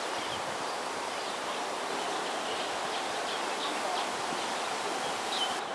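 Steady outdoor ambient hiss with faint, scattered bird chirps.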